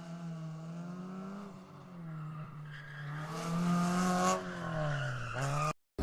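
Car engine running hard, its pitch climbing and dropping again and again as it revs through the gears. It grows louder about halfway through, with some hiss that may be tire noise, and cuts off abruptly just before the end.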